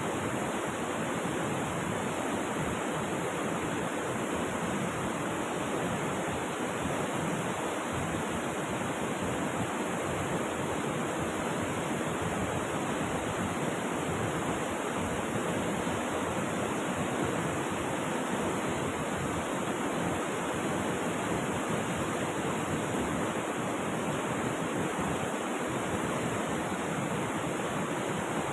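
Rushing river water, a steady unbroken roar of flowing water.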